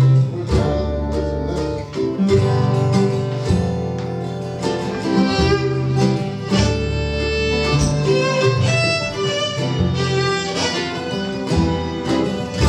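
A live acoustic string band playing an instrumental passage, with fiddle over guitar and sustained low notes underneath.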